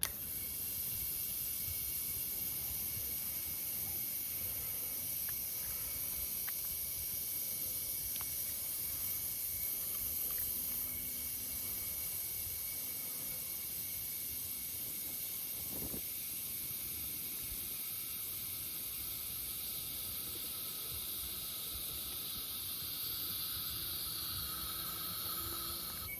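A steady, high hiss of gas rushing from a line or torch, coming on abruptly and holding level throughout.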